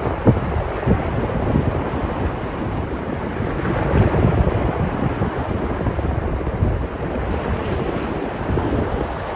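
Sea surf washing and breaking against the shore in a continuous dense wash, with wind buffeting the microphone in a low rumble.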